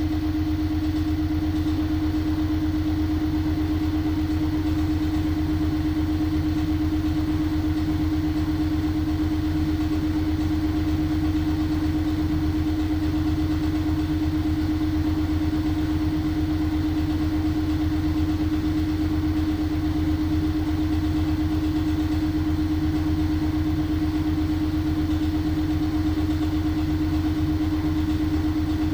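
LG washing machine running with a steady mechanical hum and a constant mid-pitched tone, unchanging throughout.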